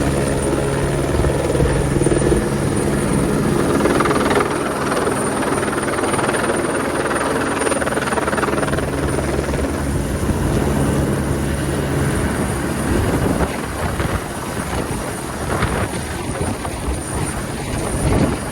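Twin Squirrel helicopter running steadily with its turbines and rotor at working power. The steady hum eases a little about two-thirds of the way through.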